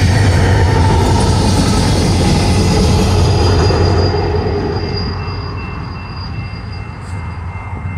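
BNSF diesel-hauled double-stack intermodal train passing close by: a heavy, loud rumble of the locomotive and well cars on the rails. About four seconds in the rumble eases and steady high-pitched tones come in over a more distant train.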